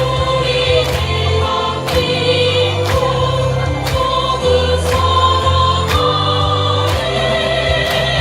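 A choir singing long, held notes with vibrato over an accompaniment of sustained bass chords and a steady beat of about one stroke a second.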